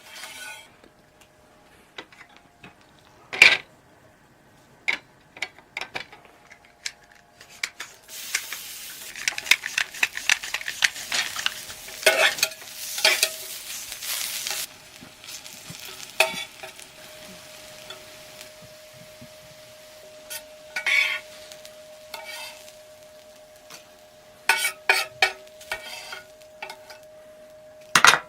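Food sizzling in a pan, with sharp clinks and scrapes of utensils against the pan and dishes. The sizzling is strongest for several seconds in the first half, and a faint steady tone sets in about two-thirds of the way through.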